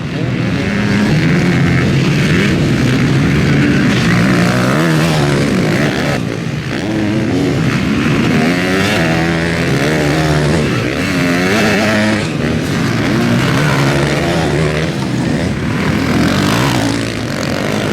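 Several motocross bikes racing, their engines revving up and falling back in pitch through gear changes, overlapping one another.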